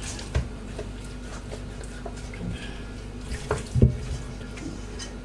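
Hands rubbing wet seasoning paste into a raw whole chicken: faint squelching and handling noises, with a soft knock a little under four seconds in, over a steady hum.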